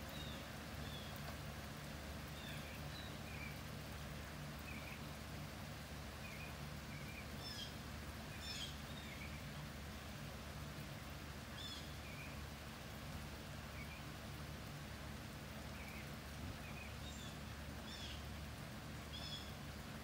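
Birds chirping in short, scattered calls, with a few sharper, higher notes among them, over an even hiss of light rain and a steady low hum.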